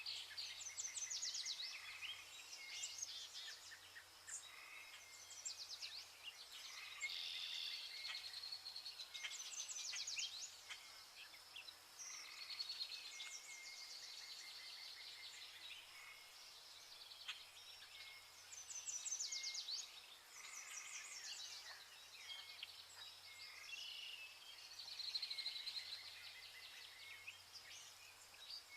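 Vernal hanging parrots calling: high, thin chirps and quick twittering runs, repeated in clusters every second or two, over a faint low hum.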